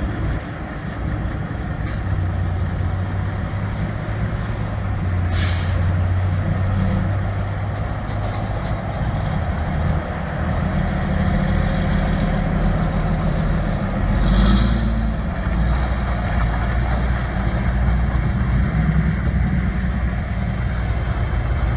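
2010 Peterbilt 387 dump truck's diesel engine running steadily, with a short sharp hiss of released air from its air system about five seconds in and a softer air hiss near fifteen seconds.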